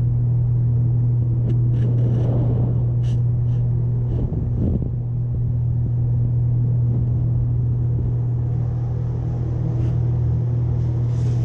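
A steady low machine hum holding one pitch with even overtones, and a few light clicks on top.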